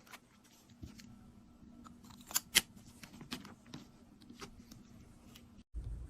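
Small tools and makeup cases being handled: scattered light clicks and taps, with two sharper clicks about two and a half seconds in. Near the end the sound cuts out for a moment and a low steady hum begins.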